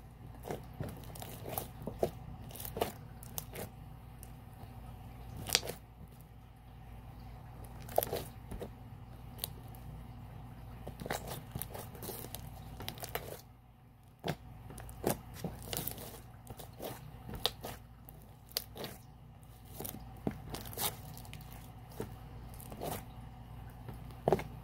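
Very sticky, unactivated slime being kneaded and stretched by hand, giving irregular sharp crackles and pops as it pulls apart.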